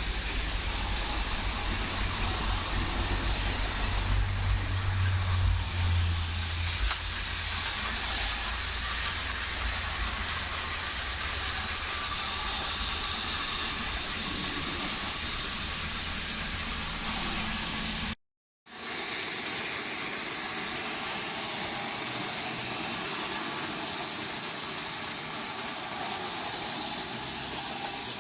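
Battery-powered Tomy toy locomotives running on plastic track: a steady small-motor whir and rolling noise, with a low rumble at first. It cuts out briefly about eighteen seconds in and resumes as a steadier, hissier running sound.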